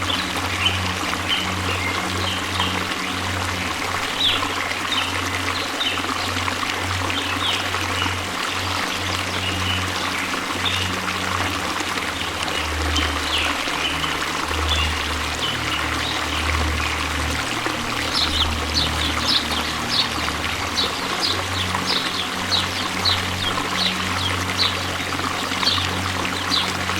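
Waterfall rushing as a steady wash of falling water, with a low sustained music drone underneath. Short high chirps come through the water, more often in the second half.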